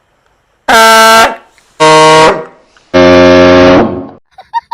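Prank train horn blasted three times indoors, short, short, then longer, loud enough to overload the recording. Each blast's pitch sags as it ends.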